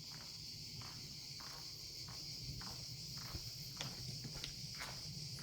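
Steady high-pitched insect chorus, with a few short clicks in the last couple of seconds.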